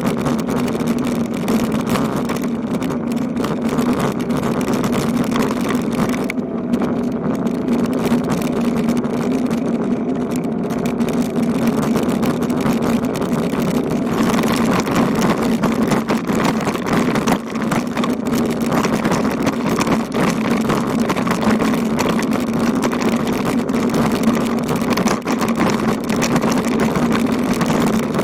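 Steady wind rush and rolling noise on the microphone of a camera riding along on a moving bicycle, with a constant low hum and no let-up.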